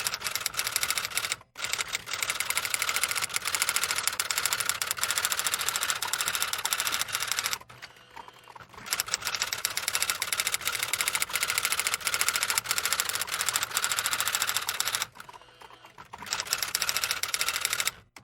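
Rapid, even mechanical clicking, many clicks a second, in runs of several seconds broken by brief pauses, like a small machine's mechanism clattering.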